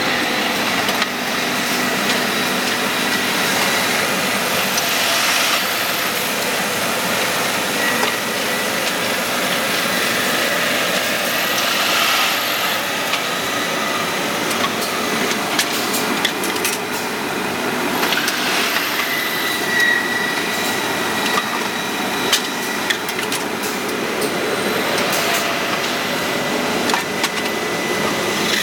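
Brake lining processing machinery running steadily, with a thin high whine and scattered clicks and knocks, the kind of noise made by grinding or cutting friction material.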